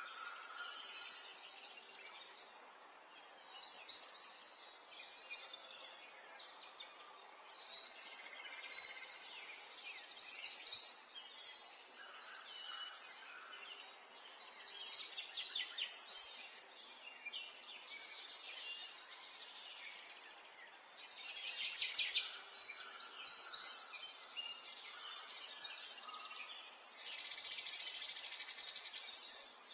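Wild birds chirping and trilling in repeated bursts, several at once, over a faint steady outdoor background.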